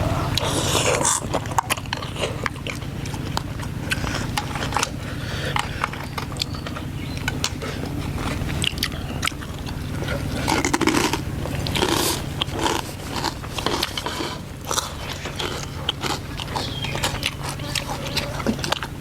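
Close-up eating sounds: irregular crunchy bites and chewing, typical of crisp pork rinds, with spoons scraping against bowls, over a steady low hum.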